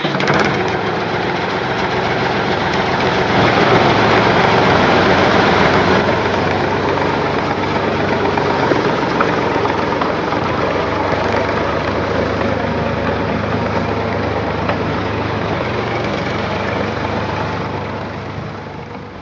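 An engine running steadily, getting a little louder a few seconds in and fading near the end.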